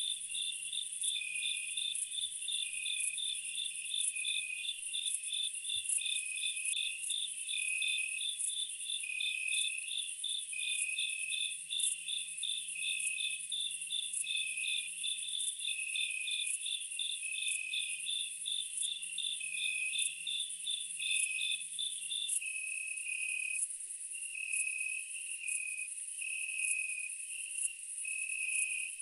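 A chorus of crickets and other insects chirping in steady, regular pulses at several pitches. The highest-pitched fast-pulsing caller stops about three-quarters of the way through, while the others keep going.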